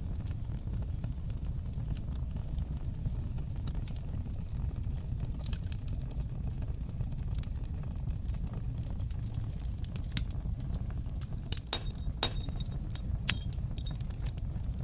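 Fire burning in a fireplace: a steady low rumble of flames with scattered sharp crackles and pops. They come thicker in the last few seconds, with one loud pop near the end.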